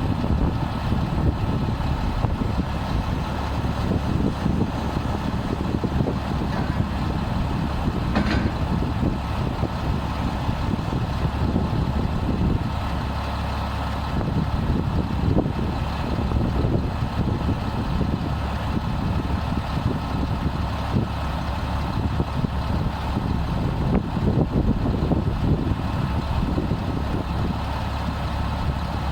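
Diesel engine of a Freightliner M2 106 truck running steadily, with a brief click about eight seconds in.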